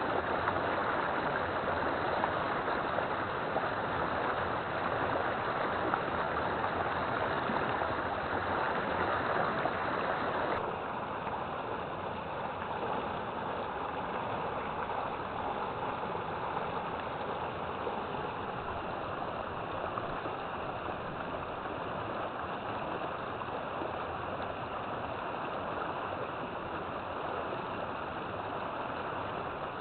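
River water flowing, a steady rushing. About ten seconds in the sound changes abruptly, becoming slightly quieter and duller.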